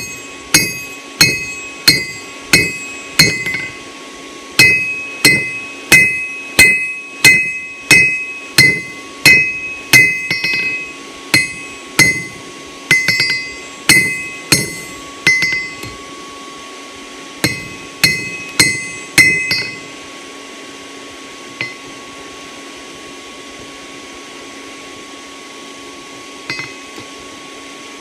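Hand hammer striking hot steel on an anvil, about three blows every two seconds with a bright ring after each, setting down the jaw of a forged skull bottle opener. The hammering pauses briefly near the start and stops about two-thirds of the way through, leaving a steady hum.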